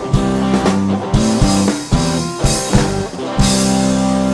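Rock band playing the instrumental ending of a song: guitars and drums on the closing chords, then a last chord struck a little over three seconds in and left ringing.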